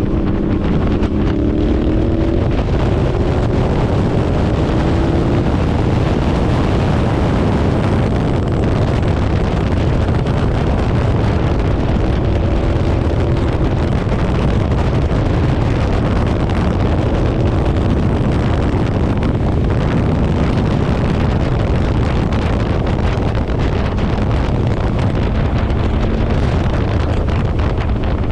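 Motorcycle engine running at road speed under heavy wind rush buffeting the microphone; the engine's pitch rises and falls a little during the first few seconds, then is mostly buried in the wind.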